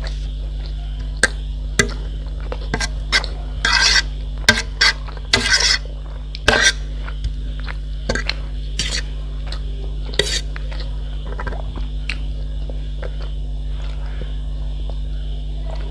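Cutlery clinking and scraping against a dish of food while eating: a run of short sharp strokes, busiest in the middle and thinning out near the end. A steady low hum runs underneath.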